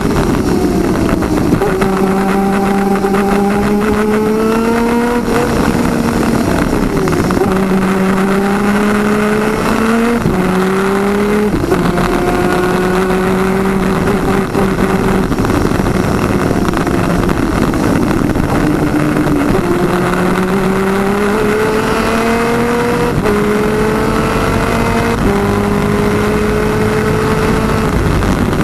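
Twin 250cc two-stroke superkart engine at racing speed, its note climbing steadily in each gear and dropping sharply at each gear change, about half a dozen times, over a steady rush of noise.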